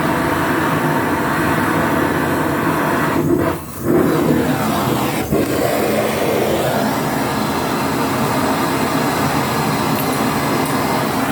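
A steady mechanical running noise from a motor or machine, with a short dip in level about three and a half seconds in.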